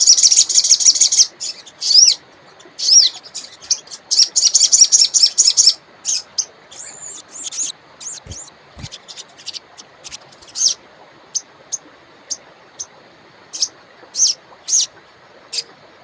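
Wild sogon songbird singing: two bursts of fast, chattering repeated notes in the first six seconds, then single sharp chirps about once a second that thin out toward the end.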